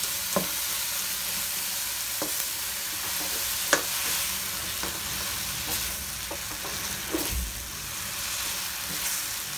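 Chopped tomatoes, onion, garlic and ginger sizzling in a nonstick wok as they are sautéed and stirred, with a steady hiss and occasional sharp taps and scrapes of the spatula against the pan.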